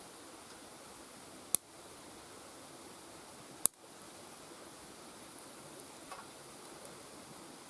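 Mixed-hardwood campfire burning with a steady soft hiss, two sharp pops about two seconds apart and a few faint ticks near the end.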